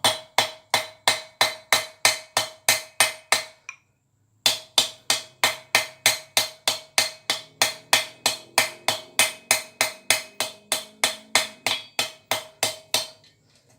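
Hand hammer striking steel in a steady rhythm of about three blows a second, with a bright ringing tone from the anvil, as a hot rivet is peened over to set the joint of a pair of forged tongs. The blows stop briefly about four seconds in, then carry on until near the end.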